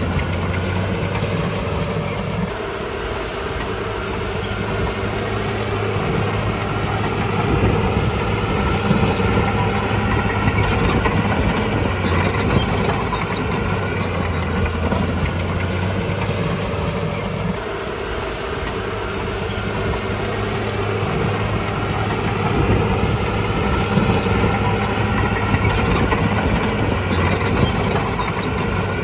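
Bulldozer's diesel engine running steadily under changing load: the hum drops back twice, about 2 and 17 seconds in, and builds again over the next few seconds. A few sharp clicks are heard near the middle and near the end.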